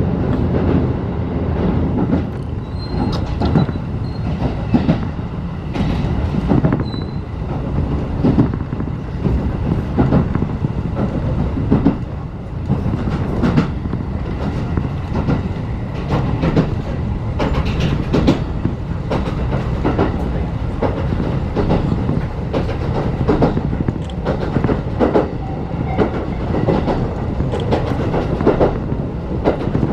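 Ride noise inside a 35-series passenger coach: a steady low rumble of the running gear with frequent sharp clicks and knocks as the wheels pass over the rail joints.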